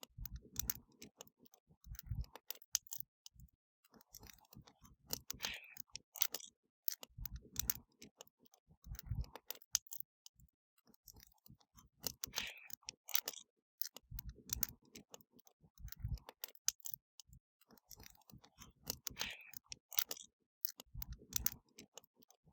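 Wood fire crackling: sharp pops and snaps of burning wood with short low thuds every few seconds. The same pattern of pops and thuds repeats about every seven seconds.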